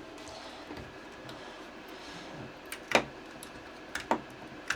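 Light knocks and clicks of hands working on a 3D printer while its feet are swapped for anti-vibration feet, over faint room hiss. The sharpest knock comes about three seconds in, and a quick pair follows about a second later.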